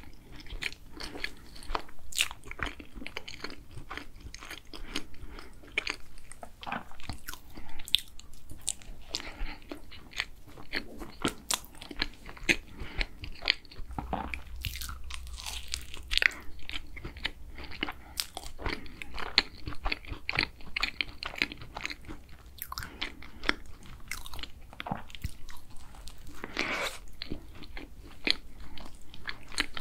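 Close-miked eating of a yogurt egg tart: the pastry shell crunching as it is bitten and chewed, with many crisp clicks, some louder than others, and soft mouth sounds.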